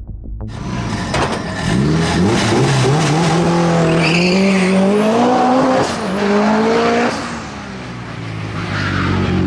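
Mitsubishi Evo 8 RS hillclimb car's Eggenberger 2-litre turbocharged four-cylinder accelerating hard. The revs climb through the gears with a shift about six seconds in, drop sharply as the driver lifts off about a second later, and build again near the end.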